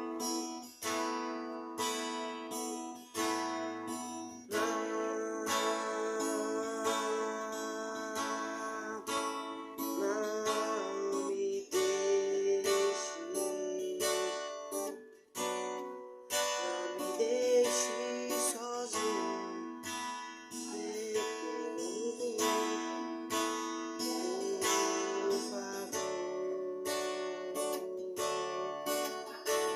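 Acoustic guitar strummed and picked in an instrumental passage of a gospel worship song, with a few bent, sliding notes in the middle.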